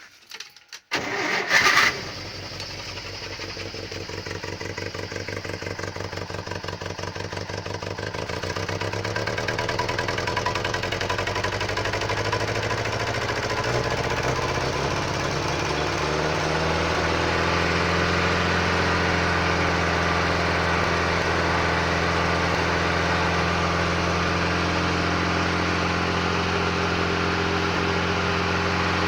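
Żuk van's S-21 four-cylinder petrol engine starting from cold in hard frost: a loud short burst about a second in as it catches, then running unevenly at first and gradually rising and settling into a steady idle. It is running on a weak spark, with the plugs and HT leads still due for replacement.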